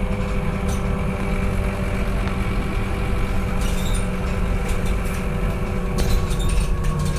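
Scania K230UB single-deck bus's diesel engine running steadily, heard from inside the bus, with a steady whine over the low drone and a few light rattles.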